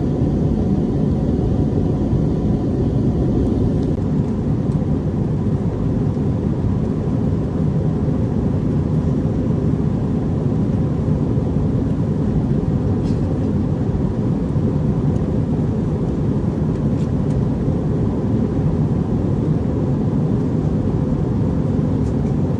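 Steady low rumble of an Airbus airliner's cabin in flight: engine and airflow noise heard from inside the cabin, with a faint steady whine above it.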